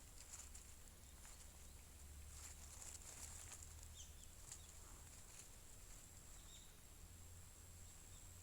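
Near silence: faint outdoor ambience with a few scattered light clicks and two or three short high chirps.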